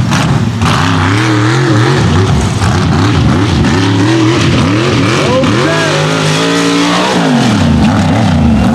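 Mega truck engine revving hard on a mud race course, its pitch rising and falling again and again as the driver works the throttle, held steady for a moment about two-thirds of the way through.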